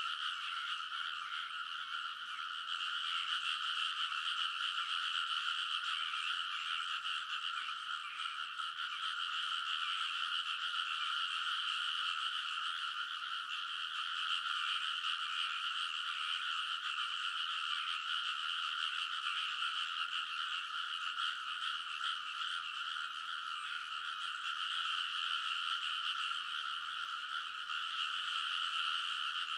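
A dense, unbroken chorus of many frogs calling together in a flooded rice paddy, with countless overlapping croaks merging into one steady, high-pitched din.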